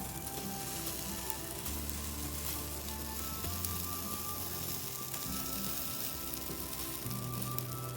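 Bonfire of stripped cedar and cypress bark crackling with many small pops, under background music of long held low notes.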